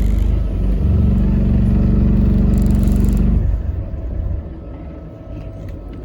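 Alexander Dennis Enviro400 MMC hybrid double-decker bus heard on board, its drivetrain giving a loud, steady low drone. The drone drops away sharply about three and a half seconds in, leaving a quieter rumble.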